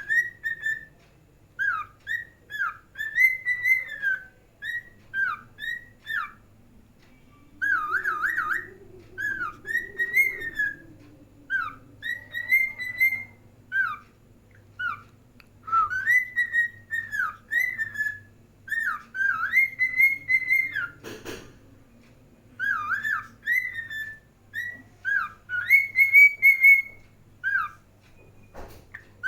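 Pet cockatiel whistling a song: a long run of short, clear whistled notes that slide up and down, some trilled, with brief pauses between phrases.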